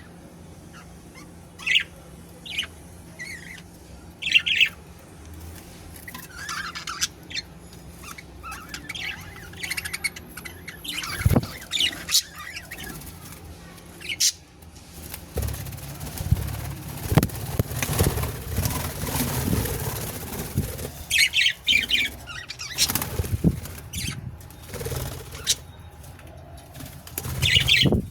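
Pet budgerigars chirping in short, scattered calls, with a stretch of wing flapping and fluttering in the middle.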